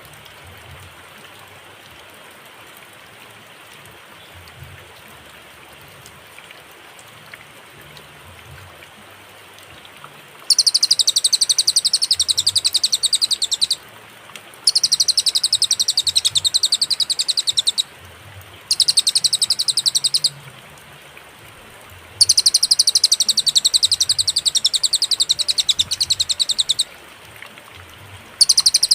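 Cililin songbird singing in bouts of fast, evenly repeated high notes. Five bouts, each one to four seconds long, start about ten seconds in with short pauses between them. Before the first bout there is only a steady background hiss.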